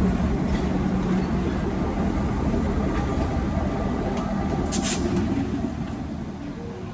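Train locomotive running on the track, its steady engine drone slowly fading as it moves off. About five seconds in comes a brief, sharp high hiss.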